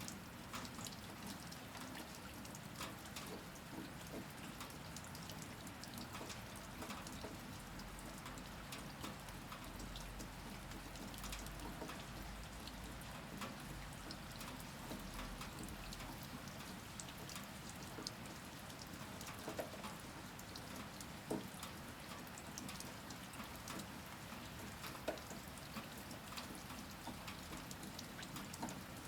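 Steady rainstorm rain, with many individual drops ticking close by and a few louder single drips in the second half.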